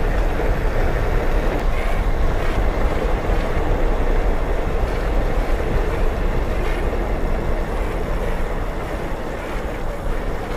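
Steady rumble of a delivery rider's vehicle moving through traffic: engine and tyre noise on the road, easing slightly near the end.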